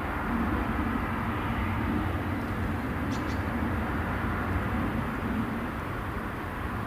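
Diesel-hauled freight train running past with a steady rumble and a low wavering engine note.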